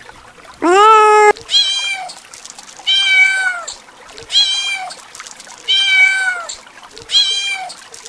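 Kitten meowing repeatedly: one lower, louder meow about a second in, then a run of five higher-pitched mews, one about every second and a half.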